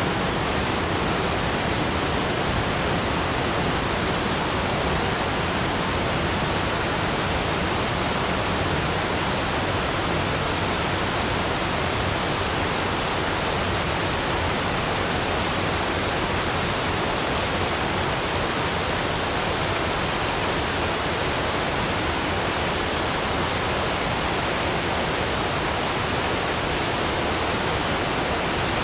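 Steady, unchanging rushing noise spread evenly from a low rumble to a high hiss, with no breaks or single events: a continuous noise bed of the kind sold as brown noise for relaxation.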